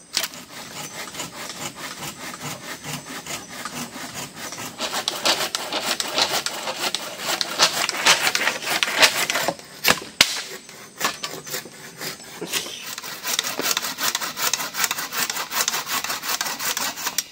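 Hand saw cutting through wood in quick back-and-forth strokes, louder in the middle, with a short pause about ten seconds in.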